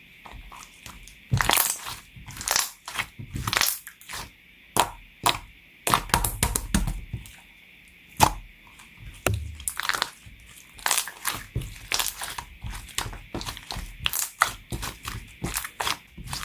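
Hands squeezing, folding and pressing blue clear slime, making irregular crackling and popping sounds, several a second, some louder than others.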